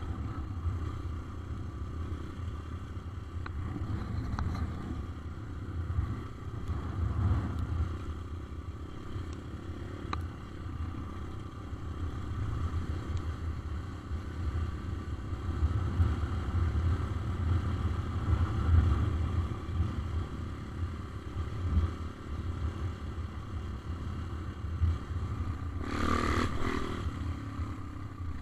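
A motor vehicle's engine running while riding, a continuous low rumble that rises and falls, with a short, louder rushing noise near the end.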